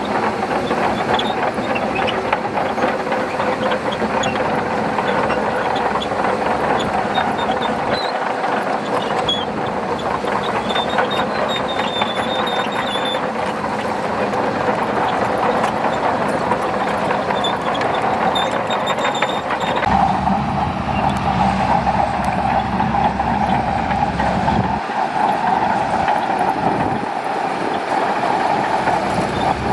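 Shantui DH17C2 bulldozer's diesel engine running steadily under load, with the clatter of its steel tracks and short high-pitched track squeals. About two-thirds of the way through, the engine note deepens and grows heavier.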